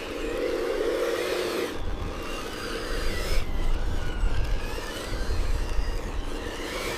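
Radio-controlled construction models running, with thin motor whines that drift up and down in pitch over a steady noisy rumble.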